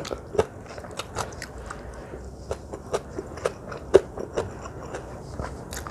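A person chewing crunchy food close to the microphone, with many small sharp crunches and clicks throughout.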